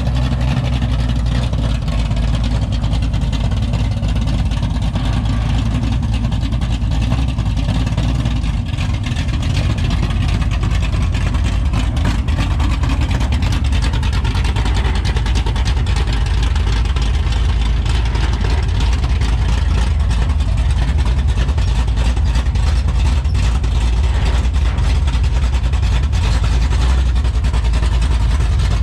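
Rollback truck's engine running steadily, its note shifting slightly about nine seconds in.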